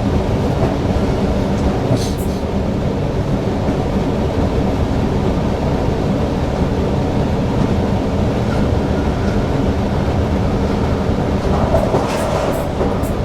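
Newag Impuls electric multiple unit running along the line, heard from the driver's cab: a steady low rumble of wheels and running gear, with a brief click about two seconds in and a few more near the end.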